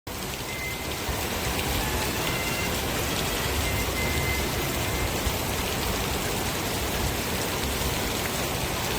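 Steady rain falling, an even hiss that starts at once and holds level throughout.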